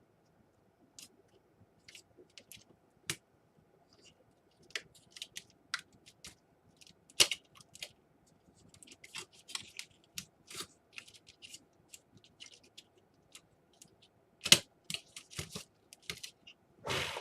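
Irregular clicks, snaps and crinkles of hands working a small laptop's keyboard and case apart during a keyboard replacement, with sharper knocks about seven seconds in, again about fourteen seconds in, and near the end.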